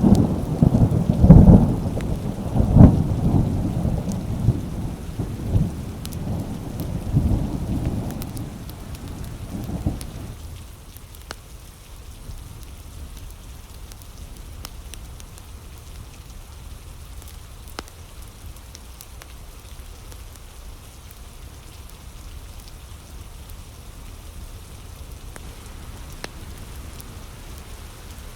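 Thunder rumbling and cracking over steady rain, the rolls dying away about ten seconds in to leave the rain falling alone, with faint scattered ticks.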